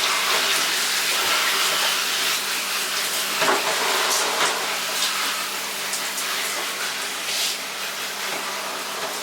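Water running steadily from a tap or shower, an even hiss of flowing water.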